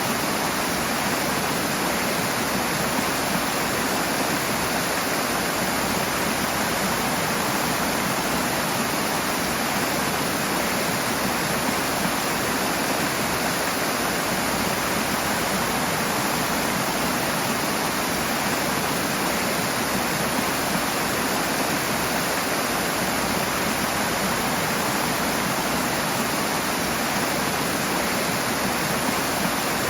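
Rushing water, a steady full rushing with no breaks or changes in level.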